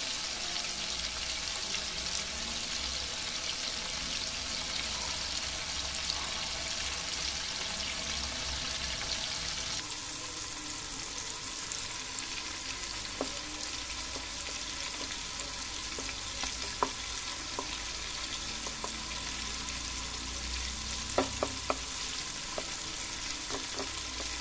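Spice-marinated prawns sizzling and crackling steadily in hot oil in a nonstick kadai, a few sharp clicks in the second half, with a spatula stirring near the end.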